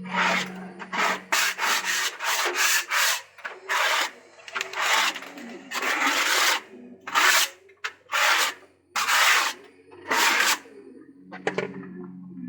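Scraper strokes on a wooden surface in a pigeon loft, about fifteen irregular scrapes over ten seconds that then stop.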